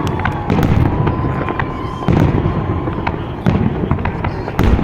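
Fireworks display: about four deep booms of shells bursting, with dense crackling between them and a thin steady tone sounding through much of it.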